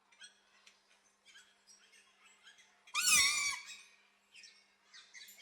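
Small birds chirping in short, high notes throughout, broken about three seconds in by one loud, harsh squawk of a green-winged macaw lasting about half a second.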